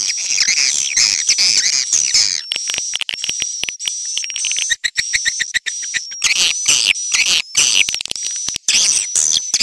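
Swiftlet call recording: dense, rapid twittering chirps of swiftlets broken by fast trains of clicks, over a thin steady high whistle.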